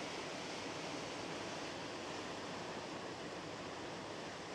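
Steady rushing noise at the stern of a moving car ferry: wind and the ship's churning wake, even and unbroken.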